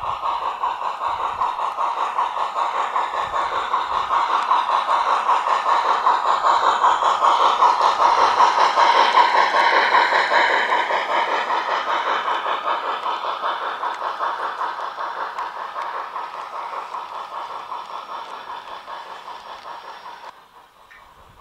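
Garden-railway model train running past: a fast rhythmic rolling clatter that grows louder, peaks about halfway, then fades away and cuts off shortly before the end.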